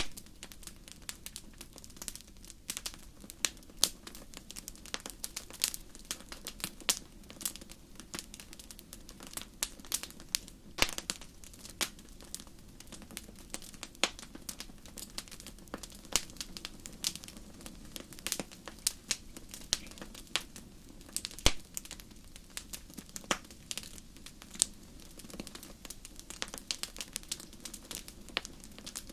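Fireplace crackling: irregular sharp pops and snaps from burning wood, several a second, over a steady low rush from the fire.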